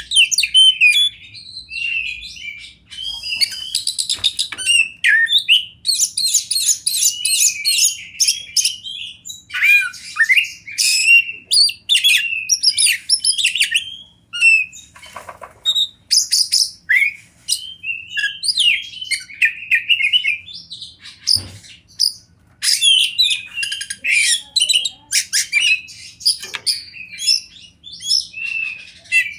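Oriental magpie-robin (kacer) singing a fast, varied song of high chirps, whistles and trills, almost without pause.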